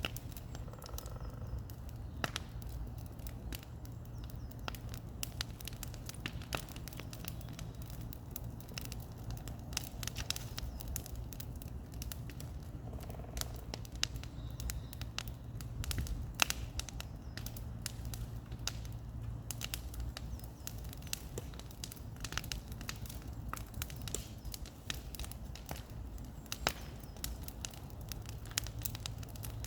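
Bonfire crackling, with many irregular sharp pops and snaps over a steady low rumble.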